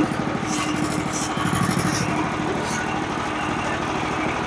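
Small gasoline engine of a manual bandsaw sawmill running steadily, with a few short high-pitched ticks over it.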